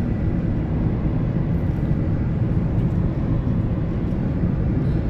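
Car driving along a road: a steady low rumble of tyres and engine, heard from inside the cabin.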